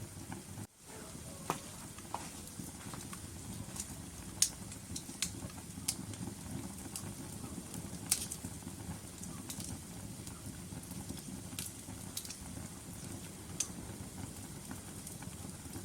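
Wood fire burning in a fireplace: a steady low rumble of flames with sharp crackles and pops every second or two, the loudest about four seconds in. The sound cuts out for an instant just under a second in.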